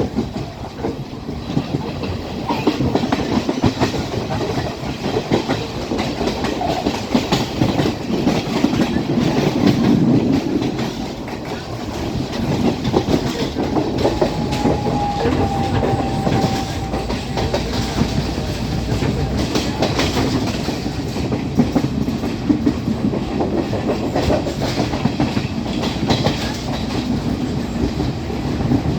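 Class S12 diesel multiple unit train running along the track: a steady rumble with wheels clicking over the rail joints. A faint thin tone sounds for a few seconds around the middle.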